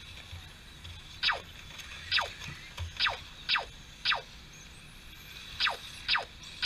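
Race lap-counting system chirps: about eight short electronic tones, each falling quickly in pitch, at irregular intervals as cars cross the timing line.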